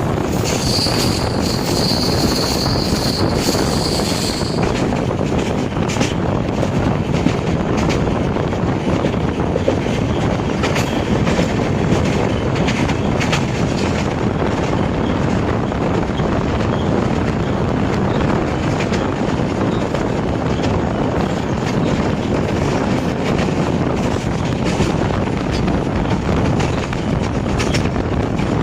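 Passenger express train running at speed, heard from on board: a steady rumble of wheels on the track with faint rail-joint clicks, and a thin high squeal for the first few seconds.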